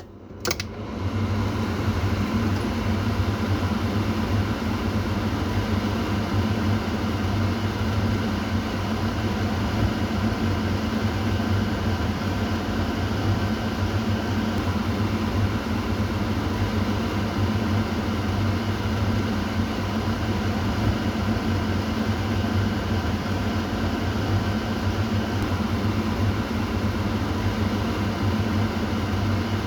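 Kitchen exhaust fan running steadily: a low motor hum under an even rush of air. After a click near the start, it comes up to full level within about a second and a half.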